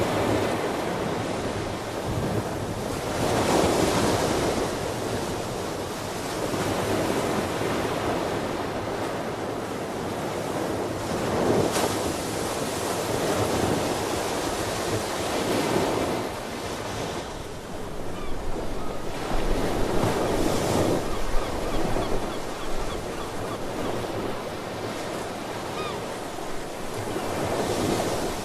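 Ocean surf: waves breaking and washing in, swelling and easing every few seconds, with wind buffeting the microphone.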